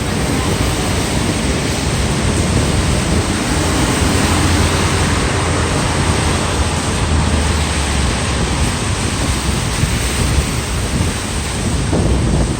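Heavy rain falling in a city street, a steady rush, with wind buffeting the microphone in low rumbles.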